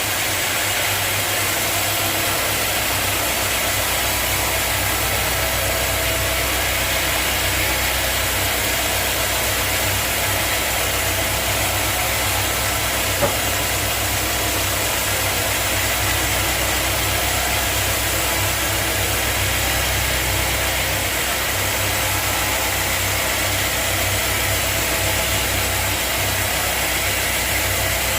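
Sawmill machinery running steadily: a constant low hum under a high, even hiss, with a single sharp click about halfway through.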